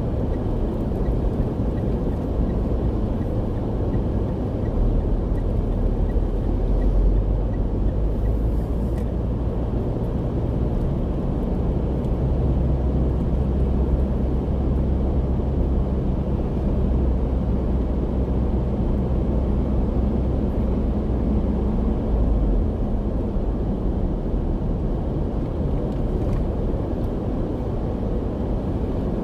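Inside a moving car: steady engine and tyre road noise. The low engine hum grows stronger about five seconds in and eases back about twenty-two seconds in.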